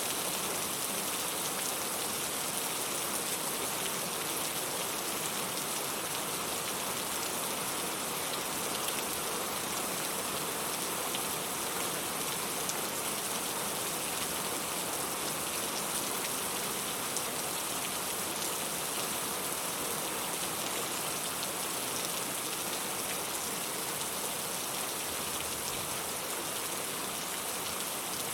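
Steady rain: an even, dense hiss of falling drops with faint individual drop ticks scattered through it.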